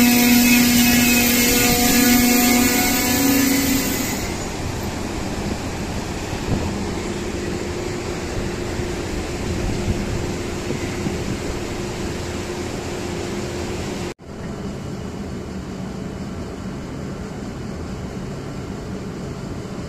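An ETR 500 Frecciarossa high-speed electric train passing through at speed: loud for the first few seconds, with a steady low hum over the rush of wheels and air, then a steadier, quieter rush as the train runs away. About fourteen seconds in the sound cuts abruptly to a lower, steady hum.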